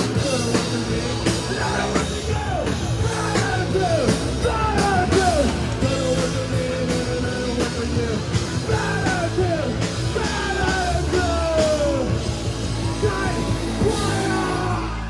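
Live rock band playing, with drums and yelled vocals; the song winds down near the end.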